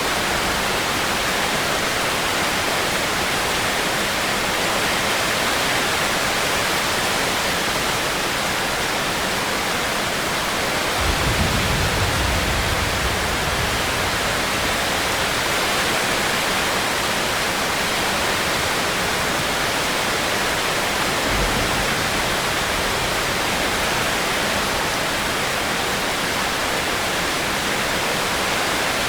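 Steady heavy rain falling, an even hiss that does not change. About eleven seconds in a low rumble rises for a couple of seconds, and a brief low thump comes near twenty-one seconds.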